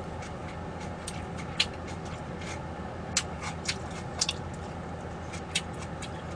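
Close-up eating sounds: chewing and wet mouth clicks, scattered and irregular, over a low steady hum.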